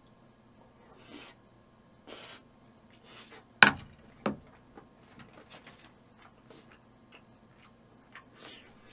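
Close-miked chewing of a mouthful of scorched rice with sauced chicken feet: wet mouth sounds and short breaths, with a sharp click a little over three and a half seconds in and a smaller one soon after.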